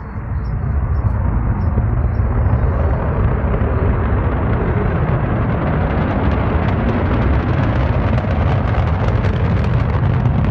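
Rocket launch rumble, a deep steady noise that builds over the first second or two and stays heavy in the low end, with crackling coming in over the last few seconds.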